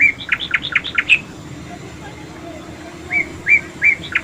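A songbird singing a repeated phrase: a few clear hooked whistles, then a quick run of about six short notes ending on a higher note. The phrase is heard at the start and again from about three seconds in.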